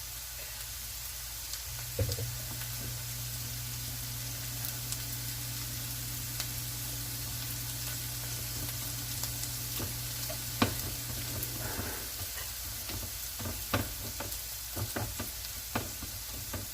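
Food frying in a pan with a steady sizzle. A low hum runs from about two seconds in until about twelve seconds, and light taps and knocks come through in the last few seconds.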